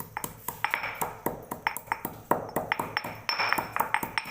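Stone pestle repeatedly knocking in a stone mortar while pounding cumin and black pepper: sharp, ringing clinks about three to four times a second, stone hitting stone at the sides.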